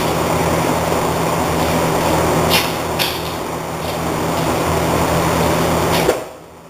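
A steady mechanical hum with a few sharp knocks, cutting off abruptly near the end.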